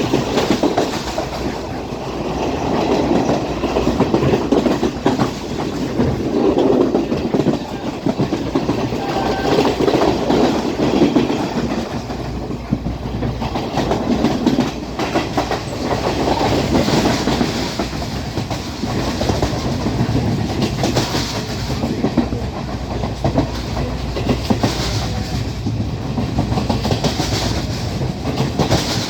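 A Sri Lanka Railways Class S12 diesel multiple unit running along the track at speed: a continuous rumble with wheel-on-rail clatter that swells and eases every couple of seconds.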